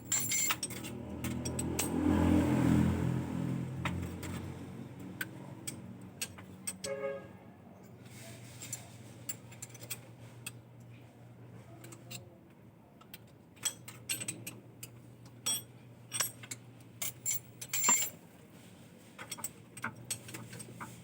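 Metal hand tools clinking and tapping in scattered knocks, over a steady low hum. A louder vehicle-like rumble swells and fades in the first few seconds.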